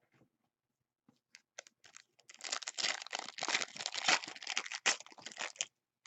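A trading-card pack wrapper being torn open and crinkled by hand: a few light ticks, then a dense crackling rustle for about three and a half seconds that stops suddenly.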